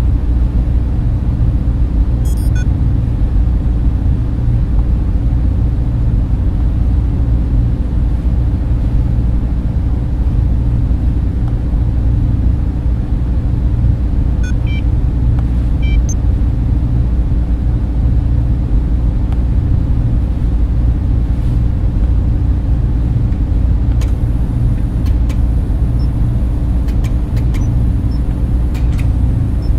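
Steady low drone of data center servers and cooling fans, most of it deep bass, with a few faint ticks now and then, more of them near the end.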